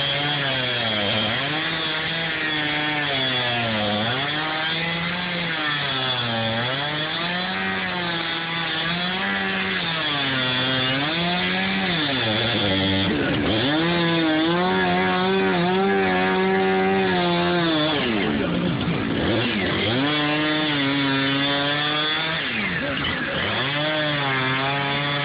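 Chainsaw engine running hard, revving up and down over and over, its pitch sagging and recovering about every two seconds, with two deeper dips partway through.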